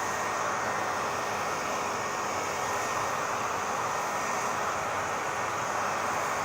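Hair dryer running steadily: an even rush of blown air with a faint high motor whine.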